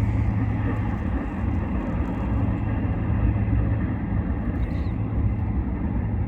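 Steady low engine drone with a faint even hiss above it, unchanging throughout.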